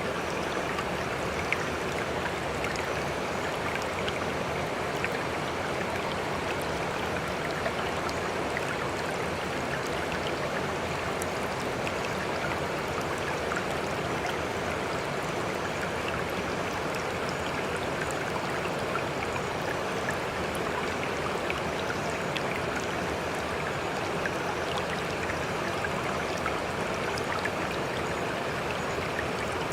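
Sea water rushing and lapping in a steady, even wash with no surging breakers, sprinkled with tiny clicks of droplets.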